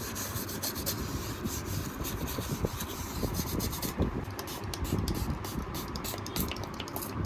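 Rubbing and scraping on a mobile phone part in quick, irregular strokes, as in sanding or abrading by hand.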